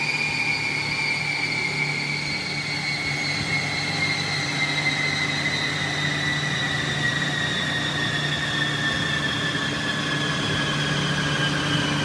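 Car running with a steady low hum under a high whine that falls slowly and evenly in pitch throughout.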